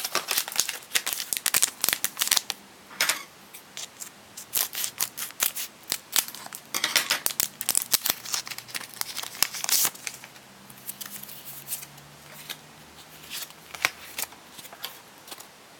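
Crinkling and tearing of a foil Pokémon card booster pack being opened, in a run of sharp irregular crackles with a few louder rips, thinning out towards the end as the cards are handled.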